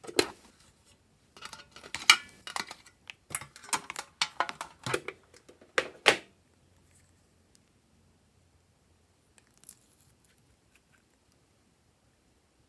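Glossy slime being handled, with a run of crisp wet clicks and crackles for about six seconds, then near silence apart from one faint click.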